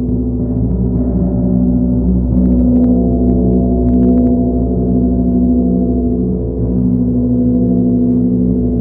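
Sound-bath drone of monochord and gong: a dense, steady wash of sustained low tones and overtones, with a few faint light ticks near the middle.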